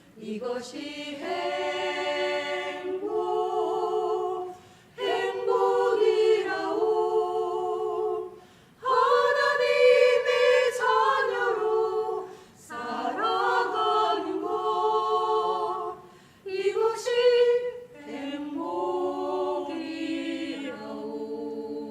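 A group of voices singing a Korean worship song together in phrases of a few seconds each, with short breaths between them.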